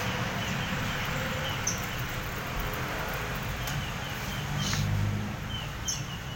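Small songbirds chirping, with short quick notes repeated in loose runs and a few sharper high notes, over a steady low rumble that swells briefly about five seconds in.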